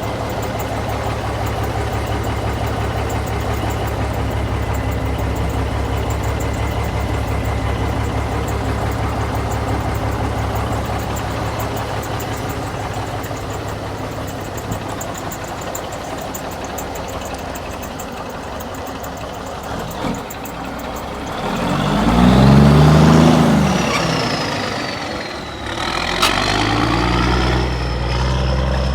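Cummins diesel engine of a 1980 Marmon cab-over truck idling steadily. About two-thirds through it is revved up and back down once, and it runs louder near the end.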